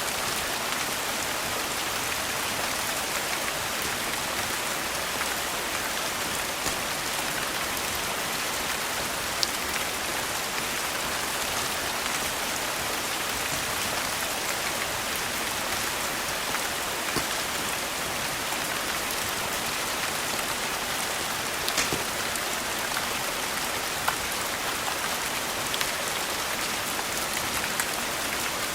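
Steady rain falling on a surface, an even hiss with a few sharp clicks scattered through it.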